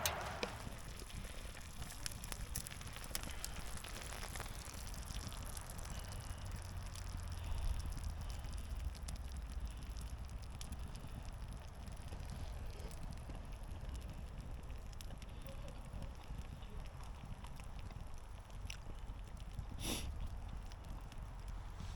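Wood fire crackling in a fire pit, with scattered small pops and one louder pop near the end, over a low rumble.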